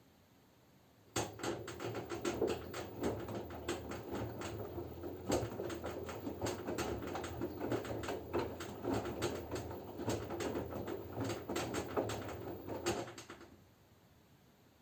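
LG F10B9LD front-loading washing machine turning its drum in the wash cycle: a low motor hum with wet laundry and water sloshing and slapping inside the drum. It starts about a second in and stops after about twelve seconds, one tumble before the drum pauses.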